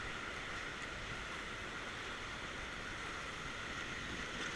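River water rushing steadily around a rafting boat.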